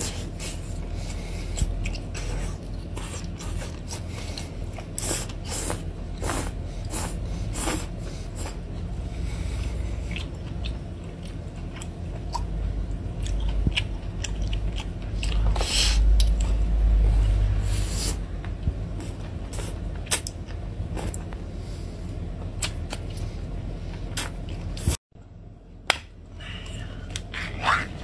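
Close-up wet chewing, sucking and smacking on the tentacles of a whole jarred octopus, with many sharp mouth clicks, over a steady low hum. It breaks off suddenly near the end.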